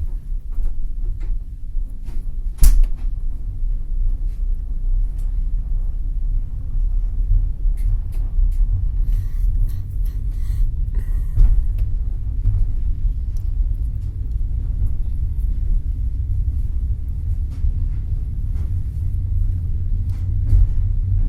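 Low steady rumble inside a passenger train carriage, with scattered light knocks and creaks of the carriage and one sharp knock about two and a half seconds in.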